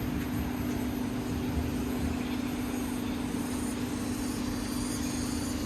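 Yamaha NMAX 155 scooter engine running at a steady cruise, a constant hum over a low rumble of wind on the microphone.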